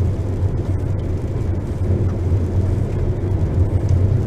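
Steady low rumble of a vehicle driving on a dirt road, engine and tyre noise heard from inside the cabin.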